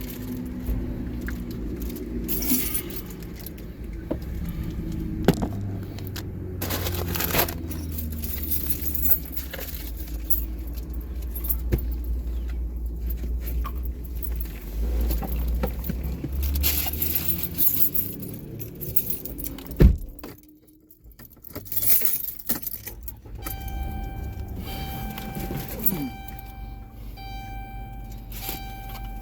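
Keys jangling over the low, steady rumble of a car engine running. About two-thirds of the way through there is a sharp click and the sound drops out briefly, and near the end a chime of steady tones repeats with short gaps.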